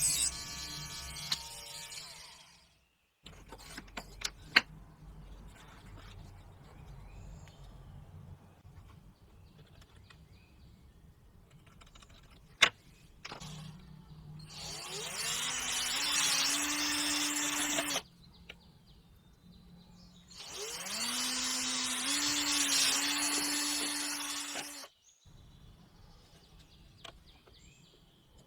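Homemade string trimmer driven by a 775 DC motor, run twice for about four seconds each: its whine rises as the motor spins up, then holds steady over a loud rushing noise from the spinning head. Between the runs there are faint bird chirps and a sharp click.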